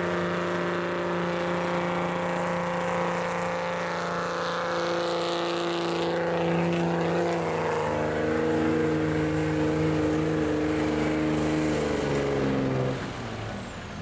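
Street-class diesel 4x4 pickup engine running hard under load while pulling the weight-transfer sled, its note holding steady and then stepping to a new pitch a few times. The engine falls away about a second before the end as the truck lets off.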